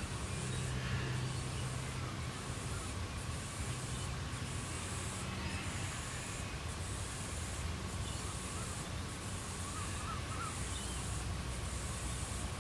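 Australian bush evening ambience: a high insect buzz pulsing about once a second over a steady low rumble, with a few faint distant bird chirps.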